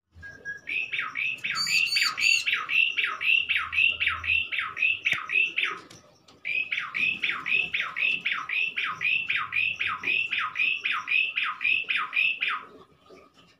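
Bar-winged prinia (ciblek) calling: a long run of repeated, identical down-slurred notes, about three a second. It stops for half a second about six seconds in, then starts again.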